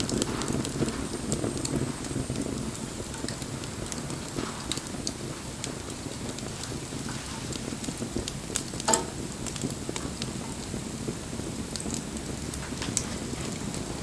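Bonfire burning: a steady low rush with scattered crackles and small pops, one louder pop about nine seconds in.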